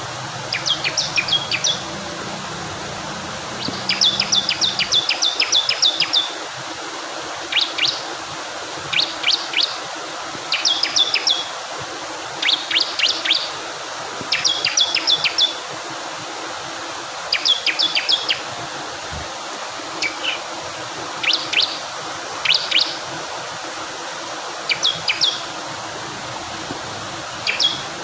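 Bar-winged prinia (ciblek kristal) singing: short bursts of rapid, high chipping notes, repeated every second or two, over a steady rush of flowing water.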